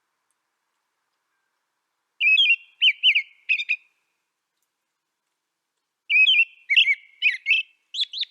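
A songbird singing two short phrases of quick, warbling chirps, about four seconds apart, with dead silence before and between them.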